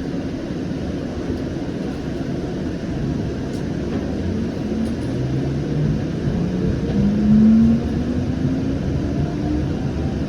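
Siemens S700 light rail vehicle, heard from inside the car, pulling away from a station. Under a steady rumble, the traction motors' whine rises in pitch from about three seconds in as the train accelerates.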